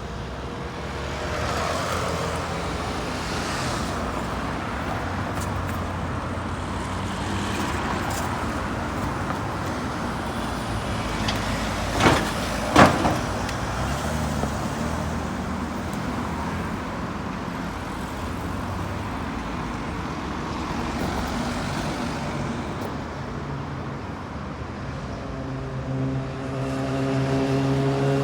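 Road traffic of cars, buses and lorries passing. Two sharp bangs a little under a second apart about twelve seconds in, and near the end a heavy vehicle's engine pulling away, its pitch rising.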